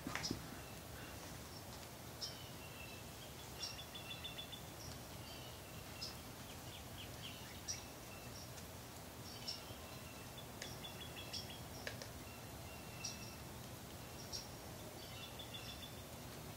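Faint songbirds chirping, with short high notes and quick trills repeating every second or two over a steady low outdoor hum.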